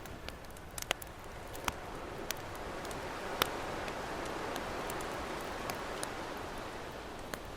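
Campfire crackling with sharp, scattered pops over the steady wash of ocean waves, which swell a little midway.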